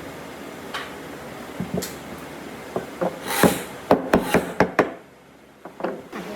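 Sharp knocks and taps on wood: a few scattered at first, then a quick run of about six loud knocks in the middle, then a few softer taps.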